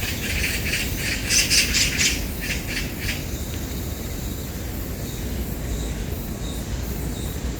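A group of Oriental magpies chattering in fast, harsh bursts during the first three seconds as they fight among themselves, then fewer calls over a low rumble.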